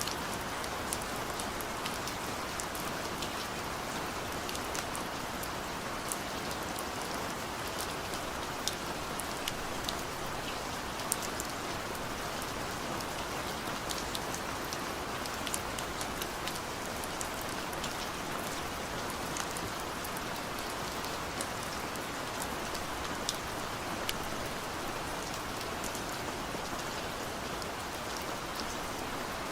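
Steady rain falling, with scattered sharp drip ticks of individual drops on a hard surface. No thunder.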